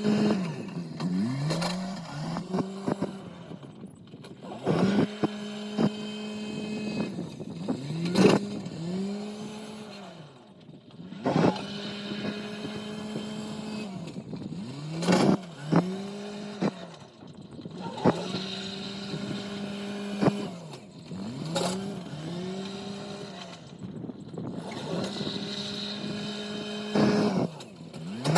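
Farm machine engine running, holding a steady note and then repeatedly revving up and dropping back every few seconds as it works. Sharp clicks and knocks come through at intervals.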